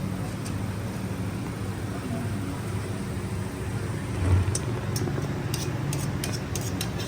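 A steady low mechanical hum, with a dull thump a little past four seconds in, followed by a run of sharp clicks.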